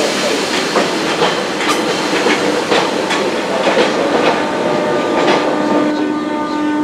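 Passenger multiple-unit train rolling past over jointed track: an irregular run of wheel clicks. About five seconds in, steady humming tones join in.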